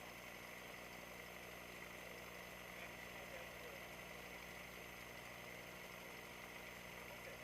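Faint steady hum and hiss, with several constant tones and no sudden sounds.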